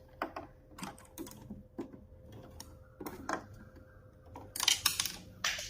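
Irregular clicks and knocks of a screwdriver and plastic parts being handled on a Singer Quantum Stylist 9960 sewing machine during disassembly, with a louder scraping, rustling stretch near the end.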